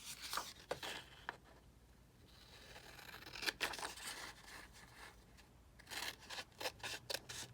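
Scissors cutting scrapbook paper: sharp snips in the first second, paper rustling and scraping in the middle, and a quick run of snips near the end.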